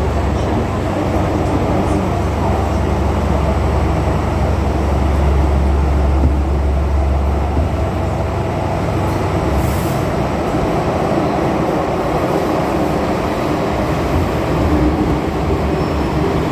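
Interior of a Hong Kong MTR M-Train running between stations: a steady rumble of wheels and traction, heavy and low for the first half and easing after about eight seconds.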